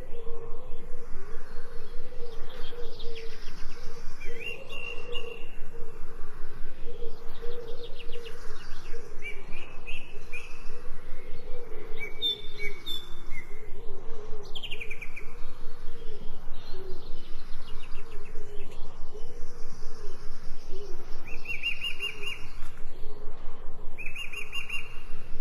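Birds chirping and trilling in short calls, over a steady, fast, even pulsing and a low wavering hum.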